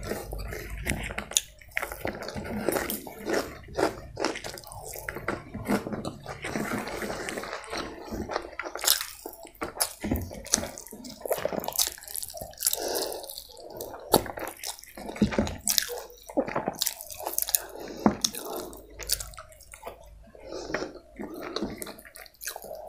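Close-miked eating of chicken biryani by hand: wet chewing and lip smacks, with many irregular sharp clicks throughout.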